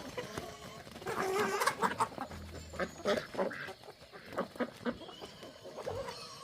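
Chickens clucking, a run of short calls close together.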